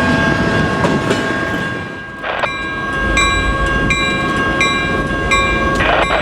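A freight train rolling past, with a steady rumble and clickety-clack of wheels on rail. About halfway through, a short ringing ding starts and repeats roughly every 0.7 seconds.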